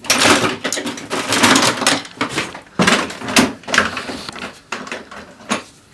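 Hand tools working on a metal exhaust pipe: scraping and clanking, with repeated short knocks.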